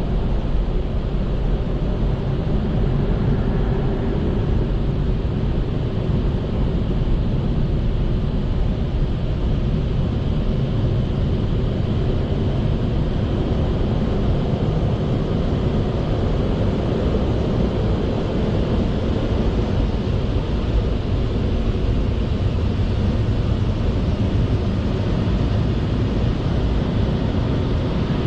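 Automatic car wash machinery running, a loud, steady rushing noise without a break.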